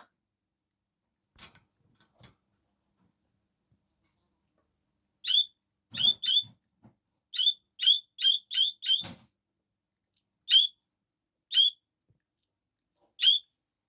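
Budgerigar giving about a dozen short, sharp high-pitched chirps in an irregular rhythm, starting about five seconds in, after a few faint ticks.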